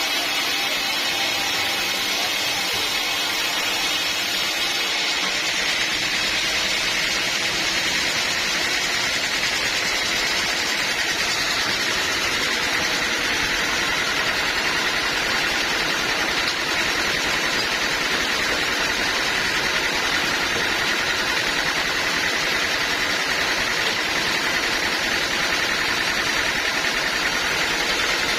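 Band sawmill running steadily, with a high steady whine that sets in about five seconds in.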